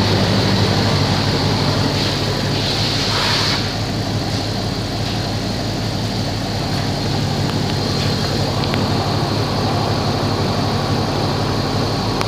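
1995 Dodge Ram 1500 engine idling steadily through a straight-piped exhaust.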